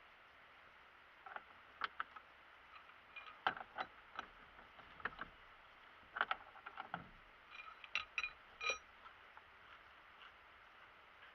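UAZ Patriot steering column giving a string of short, irregular squeaks and clicks as the steering wheel is turned. The uploader traces the squeak to an unevenly worn brass horn contact under the wheel.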